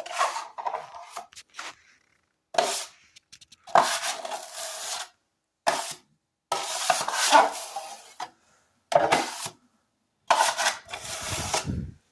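Drywall taping knife scraping wet joint compound, in about seven separate strokes, some short and some drawn out over a second or more, with pauses between.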